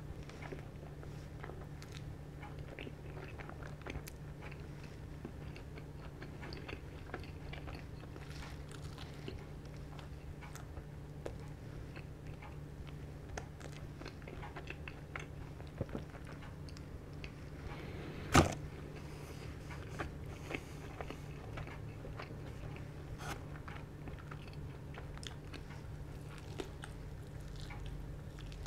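A person chewing and biting into crispy KFC fried chicken close to the microphone: soft crunches and mouth sounds over a steady low hum. One sharp click about two-thirds of the way through is the loudest sound.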